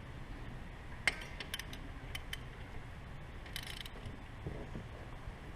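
A few faint, scattered metallic clicks and a short scrape from a wrench working the oil drain plug loose on a motorcycle engine.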